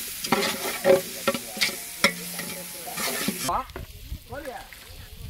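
Onions and masala frying in oil in a large aluminium pot, sizzling steadily while an iron ladle scrapes and knocks against the pot as it is stirred. The sizzle cuts off abruptly about three and a half seconds in.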